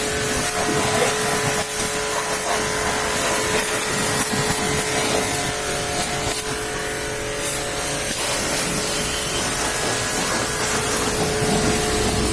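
Pressure washer running: a steady hiss of the water spray over a constant motor hum.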